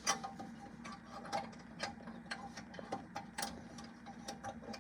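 A run of light clicks, about two a second, from the gas furnace's flame sensor and its metal mounting being handled and worked out of the burner assembly, over a faint steady hum.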